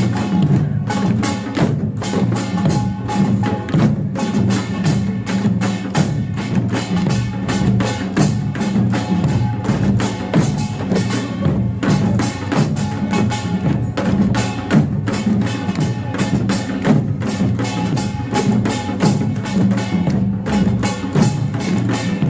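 Korean pungmul percussion ensemble playing a fast, dense rhythm: kkwaenggwari gongs, janggu hourglass drums and buk barrel drums struck in quick succession over the ringing of jing gongs.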